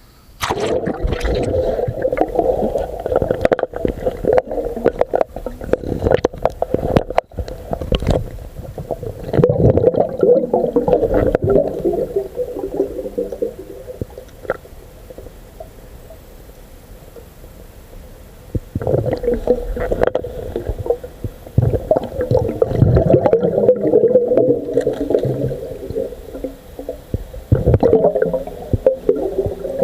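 Muffled water sloshing and bubbling as picked up by a camera held underwater in a swimming pool, with sharp clicks and knocks throughout and a quieter stretch about halfway through.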